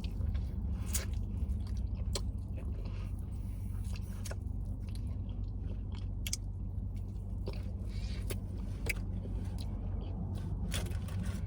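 A person chewing food close to the microphone, with scattered wet mouth clicks and smacks about once a second, over a steady low hum.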